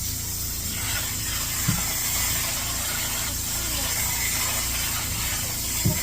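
Upholstery cleaning extractor running steadily, its vacuum giving a constant high hiss over a low rumble as the tool works the cushion fabric, with a couple of short knocks about two seconds in and near the end.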